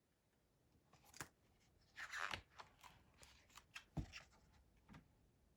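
Faint paper rustling and a few soft clicks as a picture-book page is handled and turned, with a brief rustle about two seconds in.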